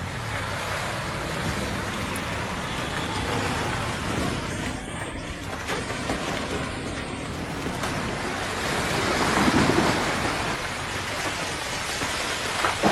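A steady, loud rushing noise with no clear tone, swelling about nine to ten seconds in, with a few sharper knocks near the end.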